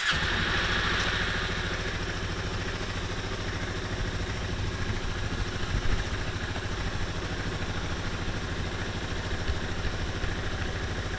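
2006 Yamaha Majesty 400 scooter's single-cylinder four-stroke engine idling just after being started, a little higher for the first second or two before settling into a steady idle.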